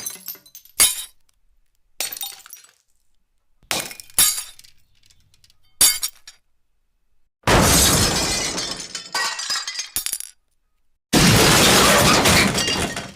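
Glass breaking and shattering again and again: about six short smashes with tinkling fragments, then two longer, louder shattering crashes of about two seconds each.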